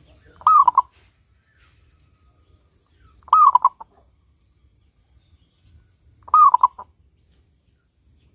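Zebra dove (perkutut) cooing three times, about three seconds apart; each call is a short, clear coo that rises and falls, followed by a quick stutter of short notes.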